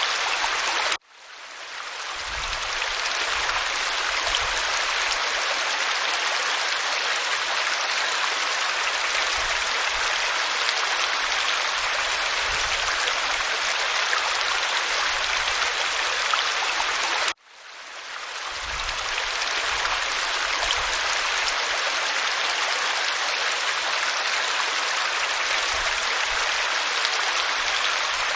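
Waterfall pouring over rock: a steady rushing hiss of water. It cuts out abruptly twice, about a second in and again about 17 seconds in, and each time fades back up over a second or two.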